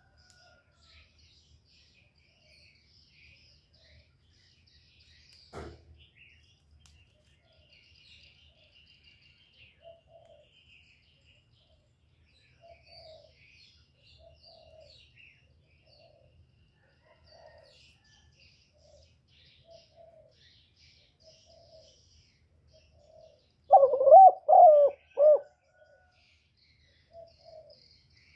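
Birds calling: faint high chirps and a soft note repeating every second or two, with a louder run of three or four wavering calls near the end. There is a single click a few seconds in.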